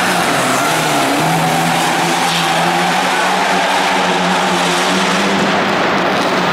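Rally car engine running hard on a stage, loud and steady, its pitch shifting up and down as it revs.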